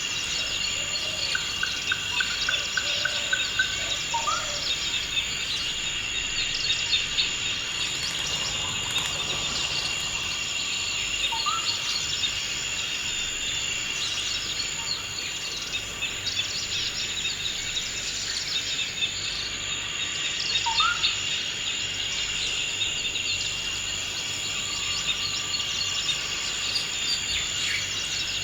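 Forest ambience: a steady, high insect drone under many small bird chirps. About a second in a bird gives a quick even series of notes, and a short rising whistled call comes three times, several seconds apart.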